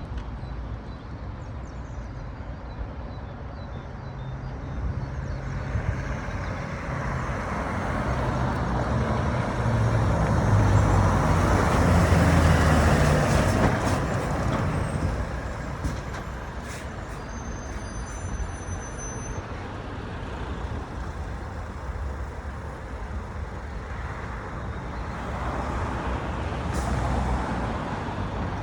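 Volvo lorry driving past amid road traffic: its engine grows louder to a peak about twelve seconds in, then fades away. A second, smaller swell of vehicle noise comes near the end.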